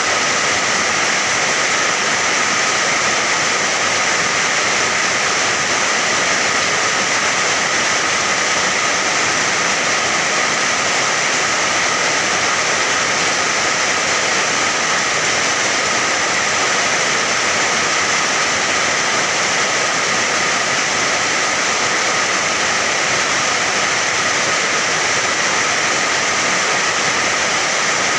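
Steady, unbroken rain, a dense even hiss with no separate drops or thunder standing out.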